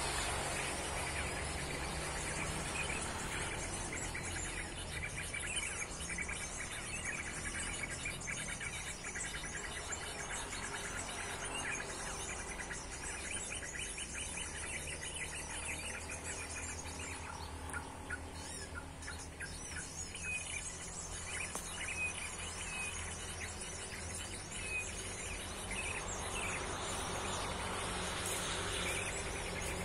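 Small birds chirping and calling in short repeated notes over a steady high insect drone, with a low steady rumble underneath.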